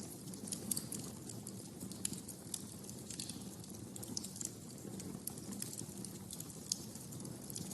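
Wood fire crackling in a fireplace: irregular sharp pops and snaps, several a second, over the steady low sound of the burning fire.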